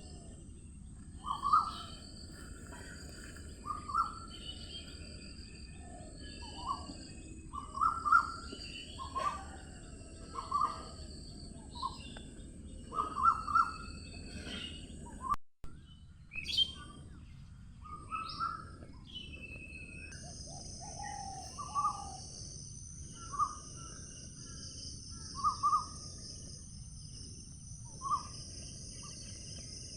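Morning birdsong under a tree: several birds calling and chirping, with short, repeated calls every second or two over a steady low background hum. About halfway through the sound cuts out for an instant, and from about two-thirds of the way through a steady high insect buzz joins in.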